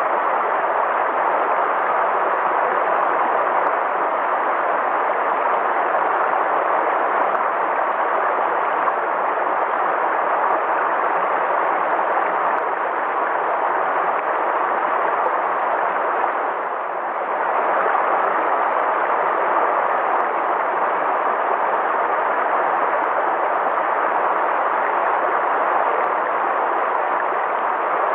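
River water flowing in a steady rush, briefly dipping softer about seventeen seconds in.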